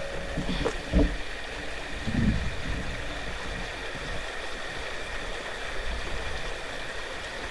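Steady rush of running water, with a couple of low bumps about one and two seconds in.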